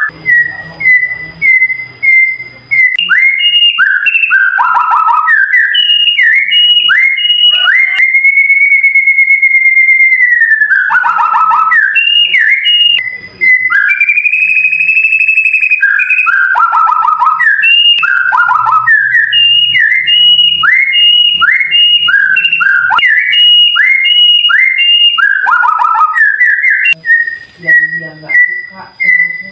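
White-rumped shama singing a loud, clear whistled song: quick repeated notes, many sweeping down in pitch, broken by a long held whistle about eight seconds in and another about fourteen seconds in.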